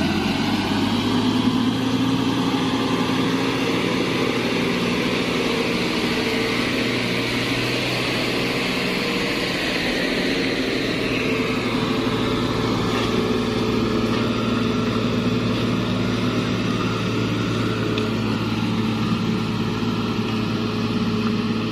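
Heavy truck diesel engine running steadily, a constant low drone with a hissing layer above it.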